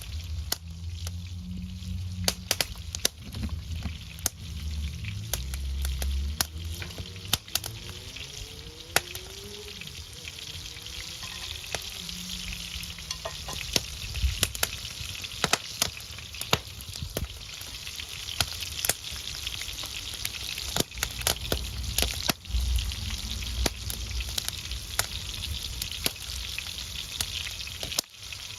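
Wood fire burning with food sizzling over it: a steady hiss full of sharp crackles and pops, with a low rumble at times.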